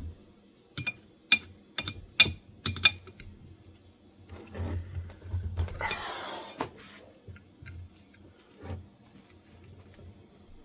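Sharp metal clicks and taps, about half a second apart, from parts of a ceiling fan's switch housing being worked loose by hand. A couple of seconds of scraping follow midway, then a few softer clicks.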